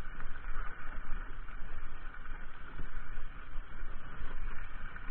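Mountain bike being ridden along a trail: continuous rough rumble and rattle from the tyres and bike, with wind buffeting the microphone.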